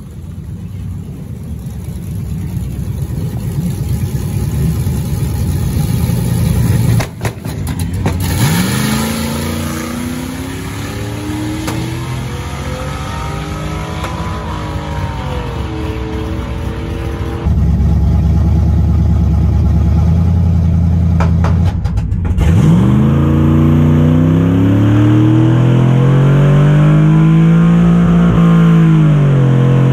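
Drag-racing engines at full throttle, in several cut-together clips. About eight seconds in, and again near 22 seconds, an engine's pitch sweeps up steeply as it launches, then climbs on and eases as the vehicle runs down the track.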